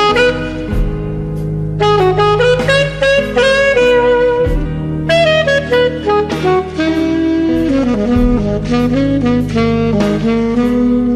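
Saxophone playing a blues solo melody in a run of held and moving notes over bass accompaniment.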